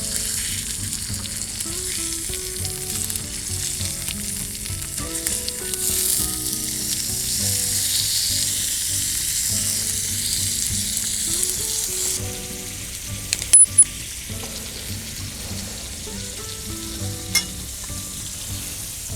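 Food sizzling and frying in a hand-forged iron frying pan, loud for about the first twelve seconds and then quieter. A few sharp clicks are heard later on.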